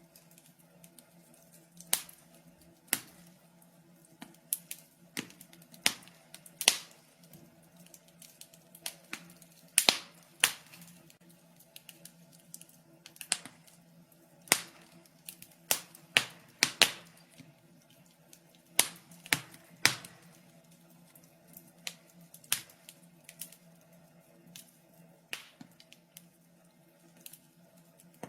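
Wood fire crackling in a fireplace: irregular sharp pops and snaps, a few each second, over a faint steady hum.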